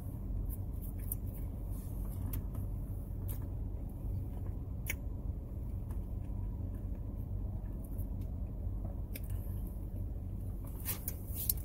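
Steady low hum of a parked car's running engine, heard inside the cabin, with scattered faint clicks from a cookie being chewed.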